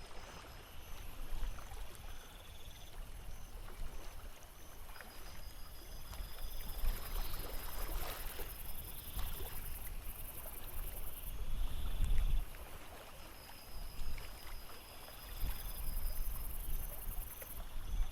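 Water lapping and splashing against a boat's hull, with a low rumble that rises and falls and scattered small clicks.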